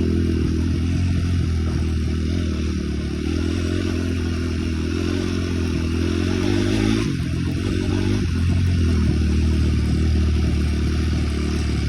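Small off-road engine running steadily while being ridden, with a brief easing of engine speed about seven seconds in.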